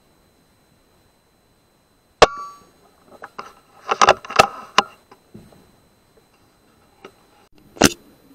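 A pre-charged HW100 air rifle firing, a sharp crack with a brief metallic ring about two seconds in. It is followed by a second or two of clattering knocks and another sharp crack near the end.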